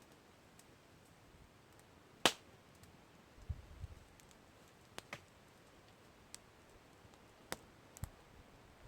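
Campfire wood crackling: a handful of sharp, scattered pops over a faint hiss, the loudest about two seconds in, with a brief low rumble soon after.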